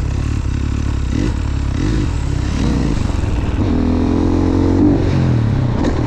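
Supermoto motorcycle engine running, blipped up in short revs several times, held at higher revs briefly past the middle, then dropping back.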